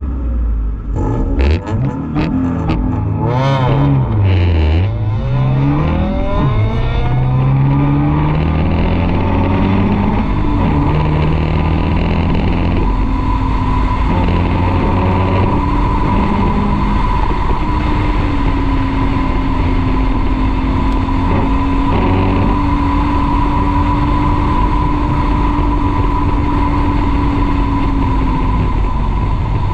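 Car engine under hard driving on an autocross course. Its pitch swings sharply up and down in the first few seconds, then climbs in steps and settles into a steady drone in the second half. Wind and tyre rumble come through from a camera mounted low on the car.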